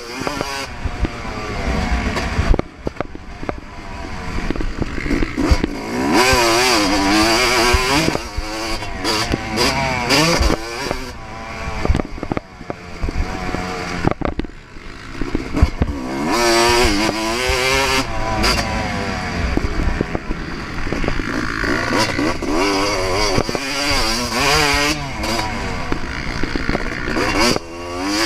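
2024 Yamaha YZ250 two-stroke single-cylinder motocross engine ridden flat out, repeatedly revving up through the gears and dropping off as the throttle closes, so the engine note rises and falls over and over.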